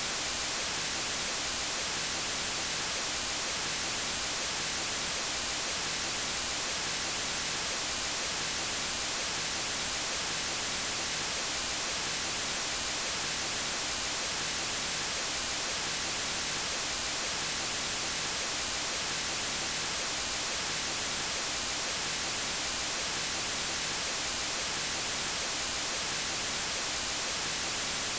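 Steady white noise: a constant, even hiss, strongest in the high frequencies, that does not change.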